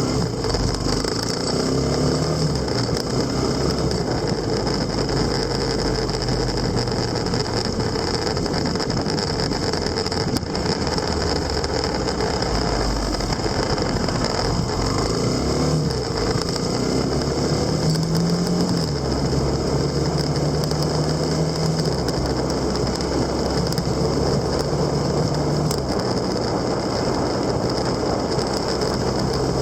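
An engine running steadily under a constant rushing noise, its low hum shifting a little in pitch now and then.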